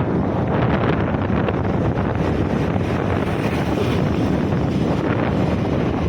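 Wind rushing over the microphone of a moving scooter, mixed with the scooter's engine and road noise, steady throughout.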